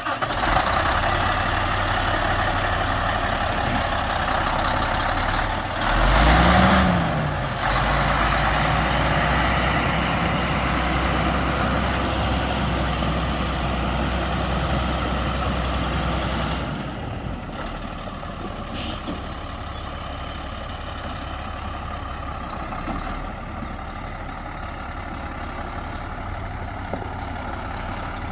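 Diesel engine of a 2000 Peterbilt 378 truck tractor running just after start-up. It is revved once, rising and falling, about six seconds in, then settles to a steady idle that drops lower and quieter about 17 seconds in.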